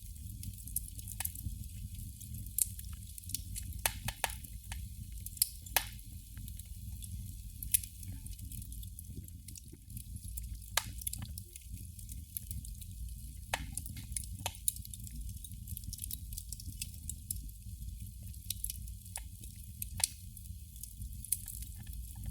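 Candle flame crackling: irregular small pops and snaps, a few sharper than the rest, over a steady low rumble.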